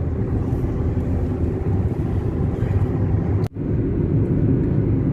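Steady road and engine rumble of a moving car heard from inside the cabin. The sound cuts out for an instant about three and a half seconds in.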